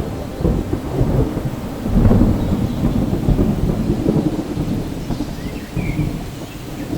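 Thunder rolling over steady rain: a sharp crack at the start, then a long low rumble that swells about two seconds in and keeps rolling.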